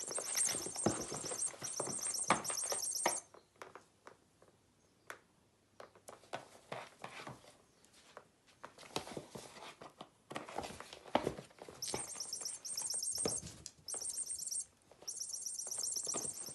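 Squeaky toy mouse squeaking in fast runs of high-pitched chirps while a pet plays with it, with knocks and patter as the toy is batted across the floor. The squeaking stops for several seconds mid-way, leaving only the taps, then starts again.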